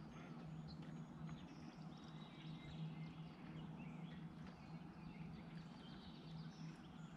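Faint birds chirping and calling, with short whistled notes, over a steady low hum.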